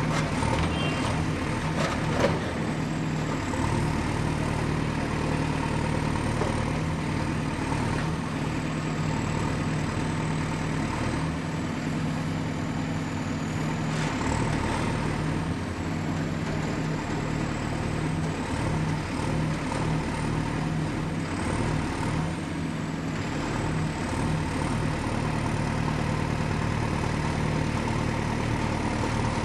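Excavator's diesel engine running steadily, with a thin high whine that dips and rises in pitch. A short knock comes about two seconds in.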